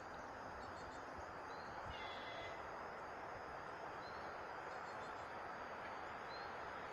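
Faint, steady rumble of a distant passenger train hauled by an EP10 electric locomotive, slowly growing louder as it approaches. A few short bird chirps sound over it.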